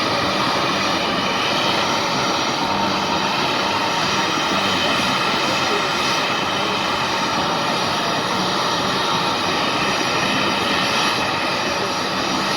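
A-10C Thunderbolt II's twin turbofan engines, a loud, steady jet noise that holds even throughout.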